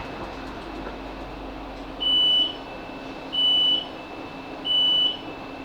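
Three identical high electronic beeps, each about half a second long and evenly spaced, from a Class 458 train's door warning as the doors are released at the station stop, over the steady hum of the stationary train.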